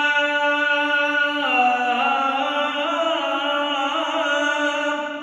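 A man's voice chanting a long, drawn-out melismatic phrase of Eastern Christian liturgical prayer. He holds sustained notes and steps between pitches. The voice begins to fade near the end.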